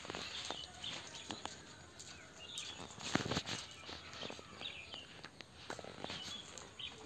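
Faint outdoor background with scattered short bird chirps and a few light clicks, and one louder thump about three seconds in.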